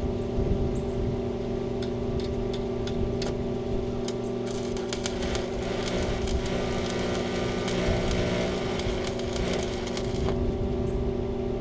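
An engine running steadily at a constant speed. A crackling hiss with sharp clicks joins in about four seconds in, lasts about six seconds and then stops.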